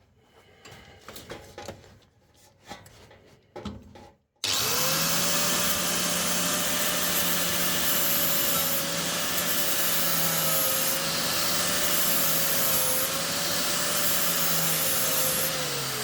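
A few faint handling clicks and knocks, then about four and a half seconds in a handheld abrasive power tool starts suddenly and runs steadily on the car's sill metal, its pitch wavering slightly under load. It is stripping paint and filler to check for rot, and it winds down near the end.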